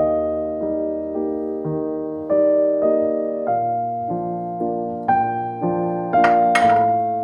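Gentle background piano music, slow notes and chords struck about every half second. Near the end, two short noisy swishes sound over it.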